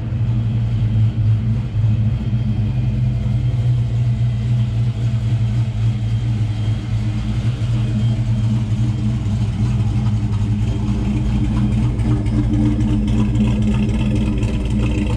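Fox-body Ford Mustang's V8 engine idling steadily.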